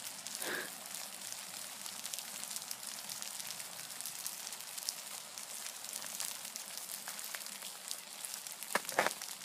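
Little drops of ice falling and pattering on icy ground after an ice storm: a steady fine crackle of many tiny ticks. A brief louder sound comes just before the end.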